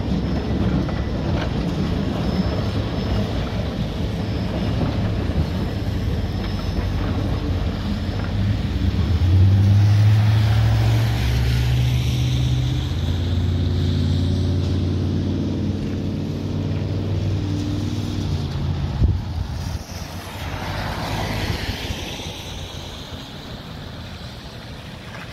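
Heritage train's passenger coaches rolling past over a level crossing with a steady rumble and wheel clatter that fade as the train moves away. A low, steady engine hum follows, with a sharp knock about two-thirds through. Car tyres hiss on the wet road as vehicles pass, the clearest pass near the end.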